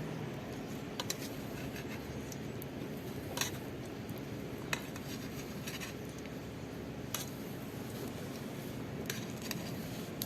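Light clicks and clinks of cooking utensils against cookware, a few seconds apart, over a steady background hiss.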